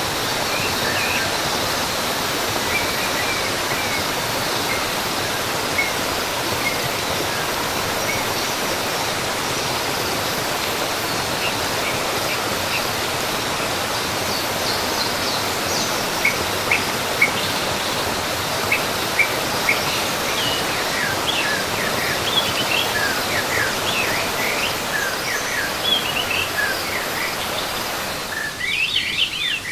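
Waterfall rushing steadily with birds chirping over it, the chirps coming more often in the second half. Near the end the water sound cuts off abruptly, leaving only the bird calls.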